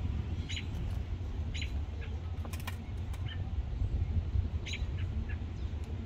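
Short, high bird chirps, one every second or so, over a steady low rumble, with a single sharp click about two and a half seconds in.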